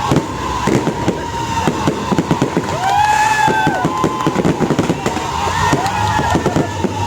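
Fireworks display: a rapid, dense run of bangs and crackles from bursting shells, several reports a second, with a few voices calling out over it.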